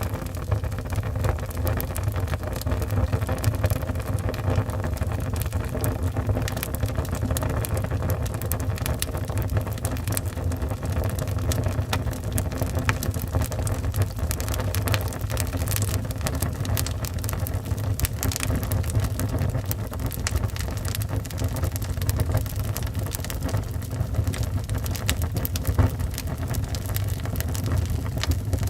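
Wood fire burning in a fireplace: a steady low rumble of the flames with frequent small crackles and pops from the burning wood.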